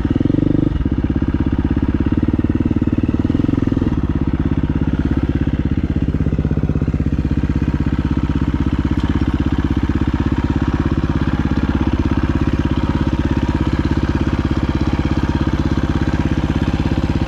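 Dirt bike engine running steadily at low revs with a fast, even pulsing beat, a little fuller for the first few seconds.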